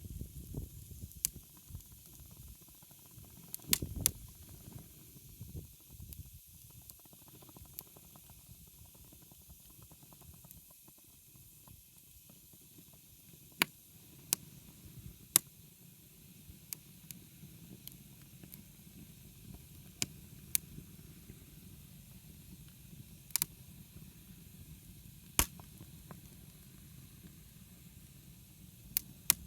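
Wood campfire burning with a steady low rumble and hiss, broken by sharp pops and crackles every few seconds as the burning firewood snaps.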